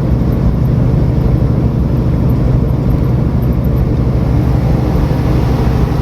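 Semi truck's diesel engine and road noise heard inside the cab: a steady low drone while cruising at highway speed.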